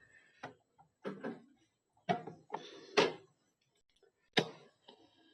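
Philips Commander DL 334 radio being tuned on its shortwave band: a handful of scattered short clicks and crackles, with near quiet between them.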